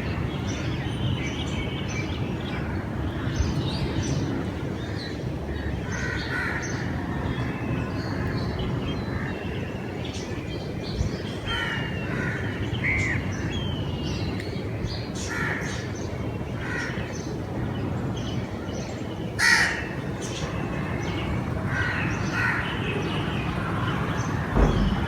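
Crows cawing: many short, separate calls scattered through, one louder call about three quarters of the way in, over a steady low background rumble.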